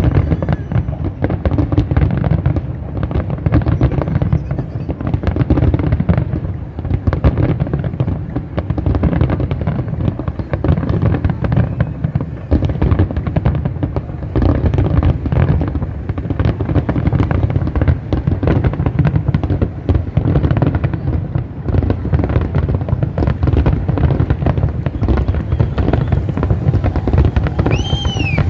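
Fireworks display going off continuously, a dense run of booms and crackling bangs over a low rumble. Near the end comes a brief high whistle that rises and falls.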